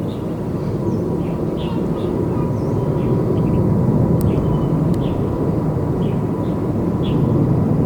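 Jet airliner engine noise, a low rumble that slowly grows louder, with a thin steady tone running through it. Short high chirps are scattered through it, with a couple of sharp clicks near the middle.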